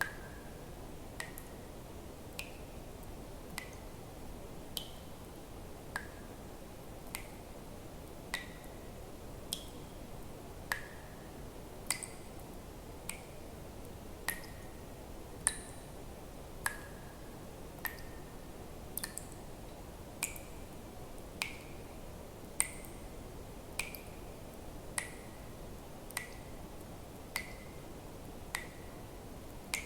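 Water drops falling one at a time at a steady pace, about one every second and a quarter, each a sharp plink with a short ringing tone whose pitch changes from drop to drop, over a faint steady hiss.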